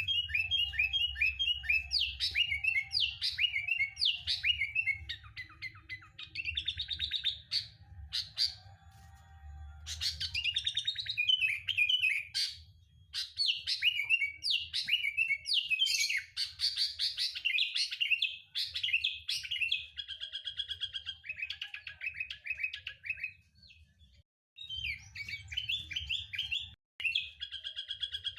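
Sooty-headed bulbul (kutilang) singing in quick chattering and trilled phrases, one burst after another. There is a short break about halfway and a longer pause near the end. A low rumble underlies the first third.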